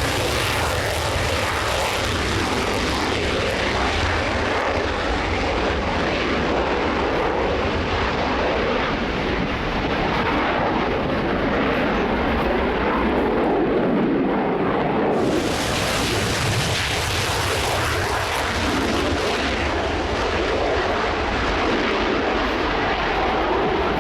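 Loud, steady aircraft engine noise from a display aircraft. The sound turns suddenly brighter about fifteen seconds in.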